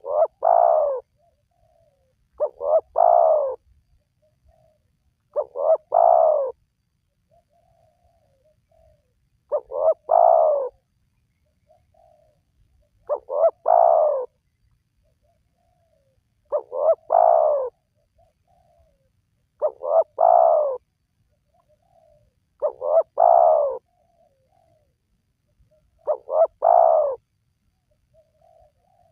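Spotted dove cooing. Its roughly one-second song phrase comes about every three seconds, nine times over, with faint short notes in between.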